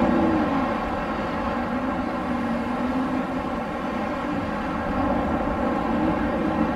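Steady blowing wind with a droning rush and a low whistling tone that wavers up and down in pitch.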